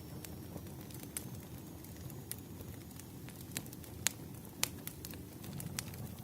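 Wood fire crackling: a steady low rumble of burning logs with irregular sharp pops and snaps, the loudest about four seconds in.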